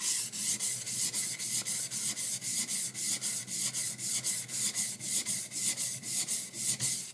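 High-speed steel skiving knife being rubbed back and forth on a sharpening stone in quick, even strokes, about four or five a second, to flatten its back. The scraping stops suddenly near the end.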